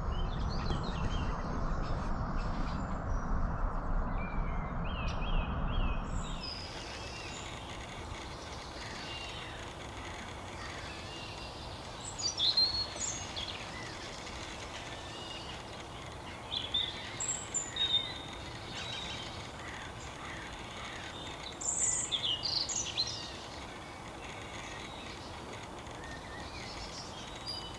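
Small birds singing: scattered chirps and short song phrases, in a few clusters, over a steady faint outdoor hiss. For the first few seconds a low rumbling noise covers everything and cuts off abruptly.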